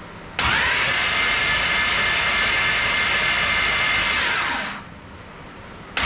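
Starter cranking an LS V8 with its spark plugs out, spinning it freely without firing to try to build oil pressure. A whine rises quickly, holds steady for about four seconds, then winds down, and a second crank begins right at the end.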